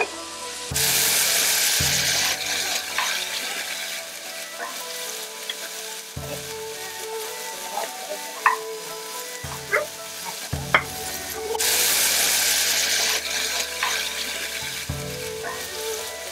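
Stir-frying over high heat in a wok: marinated beef strips and oil sizzling as they are stirred with a wooden spatula. The sizzle surges loudly twice, about a second in and again at about ten and a half seconds, with a few sharp clicks in between.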